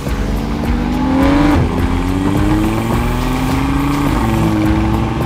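Sports sedan's engine accelerating hard, its pitch climbing and dropping back twice as it shifts up through the gears.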